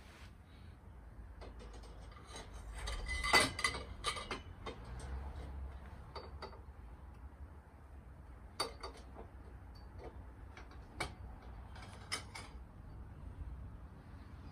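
Scattered metallic clinks and knocks as motorcycle exhaust header pipes and their brackets are handled and fitted into place. The loudest cluster of clanks comes about three to four seconds in, with single clicks after it.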